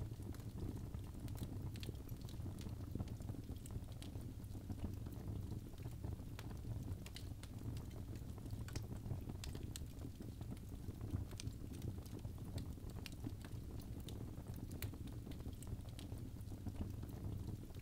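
Birch logs burning in a fireplace: a steady low rumble of flame with frequent irregular crackles and pops.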